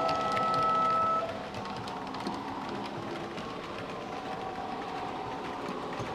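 Model E626 electric locomotive with a DCC sound decoder running. For about the first second a steady two-pitch tone sounds, then a steady running sound continues with faint light clicks.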